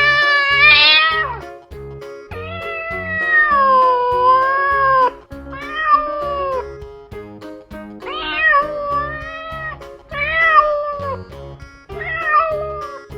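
Cat meowing again and again, about six calls, some long and drawn-out with the pitch bending, over background music with a steady beat.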